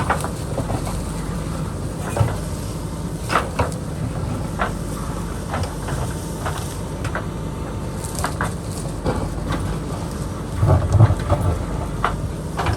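JCB backhoe loader's diesel engine running steadily while digging, with scattered knocks and scrapes of the bucket against rock and dirt. The engine swells louder for about a second near the end.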